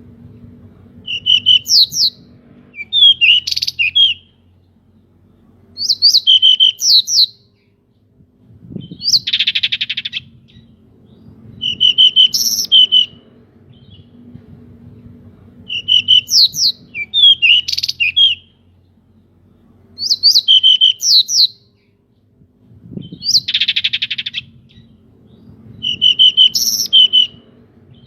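Pied bushchat (decu) singing: short, loud, whistled song phrases about every three seconds, twice replaced by a harsh rasping call.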